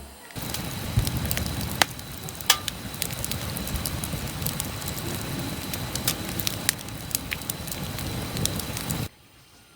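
Campfire crackling, with a steady hiss and scattered sharp pops and snaps. It starts a moment in and cuts off abruptly shortly before the end.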